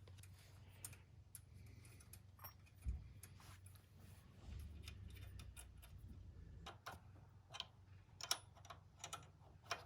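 Faint, scattered clicks and light metallic taps of tools and exhaust parts being handled, with one duller knock about three seconds in.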